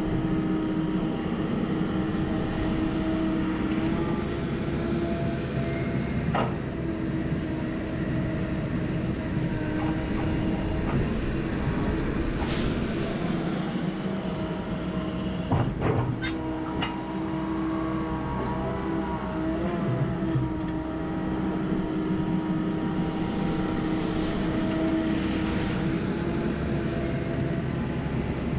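Heavy diesel earthmoving equipment running steadily with a constant tone over the engine, with a few sharp metallic clanks about six and sixteen seconds in.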